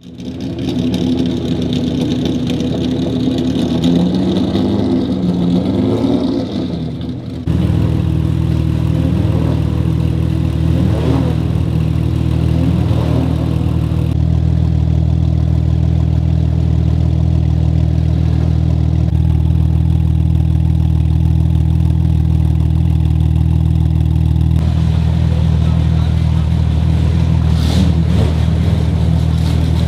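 Porsche 911 GT2 RS Clubsport's twin-turbo 3.8-litre flat-six running. Its pitch rises and falls in the first seven seconds, then it settles into a steady idle.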